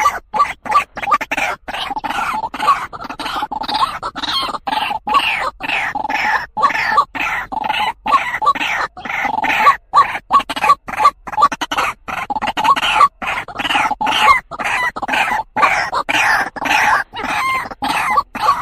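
White-breasted waterhen (truwok, ruak-ruak) calling: a fast, unbroken series of short croaking notes repeated about two to three times a second, the territorial or mate call used as a lure for trapping.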